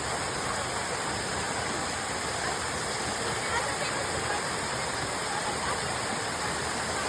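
Small waterfall rushing steadily, a constant even wash of falling water.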